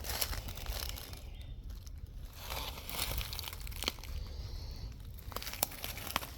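Irregular crunching and crinkling of dry leaf litter and twigs underfoot as someone walks, with sharp little crackles, over a steady low rumble.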